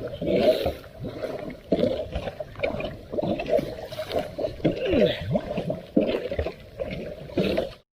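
Floodwater gurgling and bubbling as it swirls down a storm drain that has just been cleared of debris. The sound cuts off suddenly near the end.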